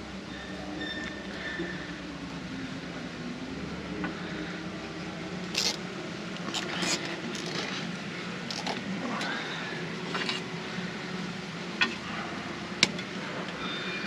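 Scattered clicks, taps and rustles of a wire being handled and fed through metal brackets, over a steady low hum. Two sharp clicks come near the end.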